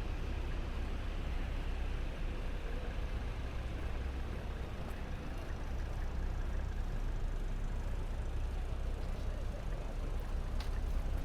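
Steady rumble of vehicle traffic with a low, even din of city background noise, and a few faint clicks near the end.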